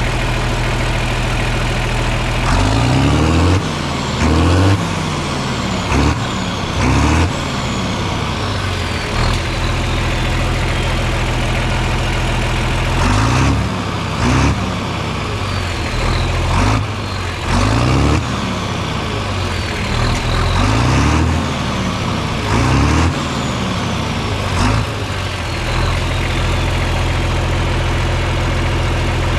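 Farm machinery engine idling, then blipped up and let fall back over a dozen times in quick succession. A faint falling whistle follows several of the revs. It settles back to a steady idle near the end.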